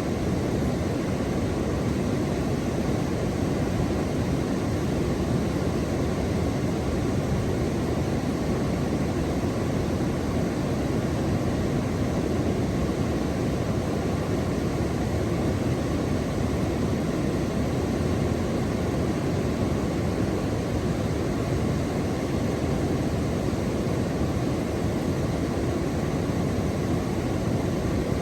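Steady, unbroken rushing noise, strongest in the low range, with no distinct calls, splashes or other events.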